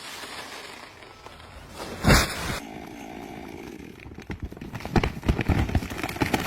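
Chainsaw running during tree cutting. There is a loud sudden thump about two seconds in, then a run of irregular cracks and knocks in the second half.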